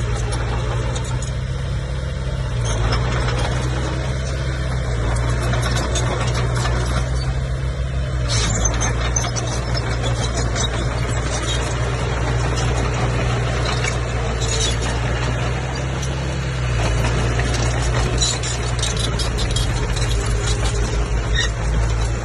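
Bulldozer's diesel engine running under load, its low drone shifting in pitch a few times as the load changes, with scattered metallic clanks over it.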